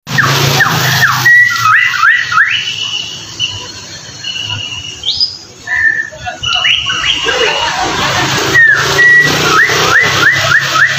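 White-rumped shama singing: runs of quick rising whistled notes alternating with long, level whistles, then another burst of rapid rising notes near the end. A low steady hum sits under the song at the start.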